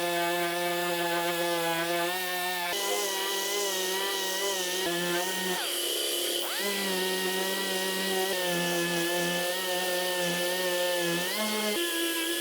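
Power sander running on car-body filler and metal, a steady whine whose pitch sags and recovers about the middle and again briefly later as it is pressed onto the panel.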